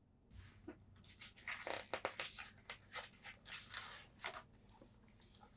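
Quiet paper rustling and crinkling as a picture book's page is handled and turned, a run of short crinkles that is busiest in the middle.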